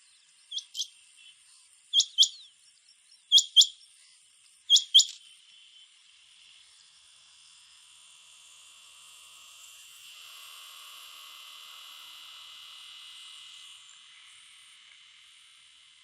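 Male rain quail calling: four sharp double notes, spaced about a second and a half apart, in the first five seconds. After that, a steady high insect hum swells and fades in the background.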